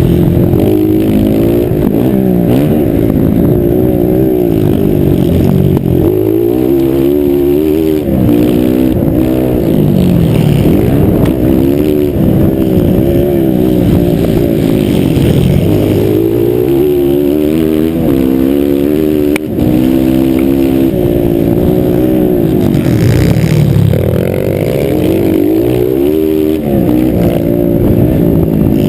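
Several motocross bikes racing on a dirt track, their engines revving up and dropping back over and over as they accelerate and shift, loud and continuous with overlapping engine notes.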